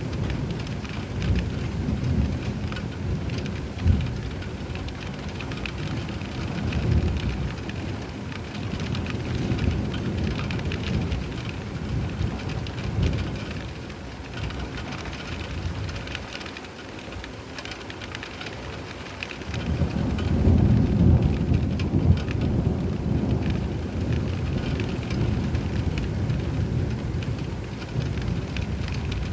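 Thunderstorm: steady rain falling, with rolling thunder rumbling low underneath. The rumble dies down for a few seconds past the middle, then a louder peal swells up about two-thirds of the way through.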